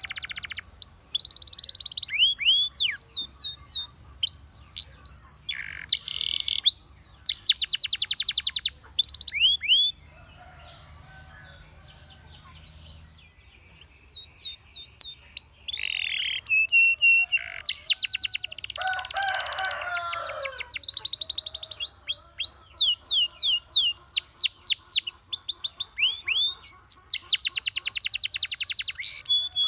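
Domestic canary singing: rapid high trills and runs of quick down-slurred notes in long phrases, with a pause of about four seconds in the middle.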